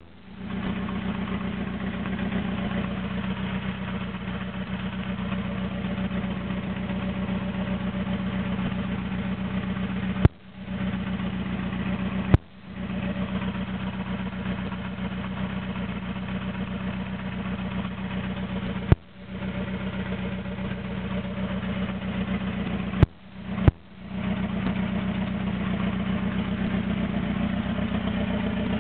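Toyota AE86's naturally aspirated 4A-GZE four-cylinder idling roughly and struggling to hold its idle, open from the downpipe with no exhaust system after it. Five sharp loud cracks break into the idle, two of them close together near the end.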